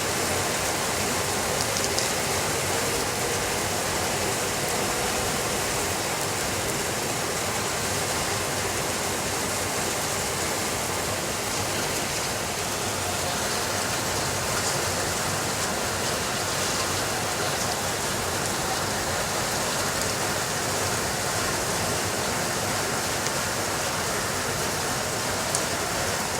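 Steady, even rainfall, a continuous hiss with no thunder. A few faint, sharp ticks sound over it, one a little louder near the end.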